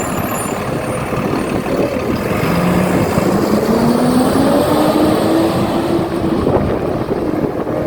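Garbage truck running loudly, its engine or hydraulic note rising steadily in pitch from a couple of seconds in until near the end.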